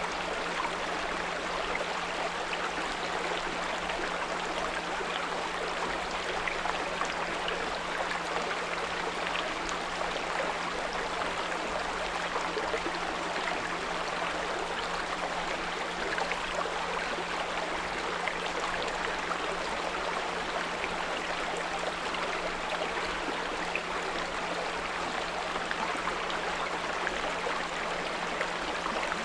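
A small brook running steadily over stones, with a constant low 174 Hz pure tone beneath the water sound.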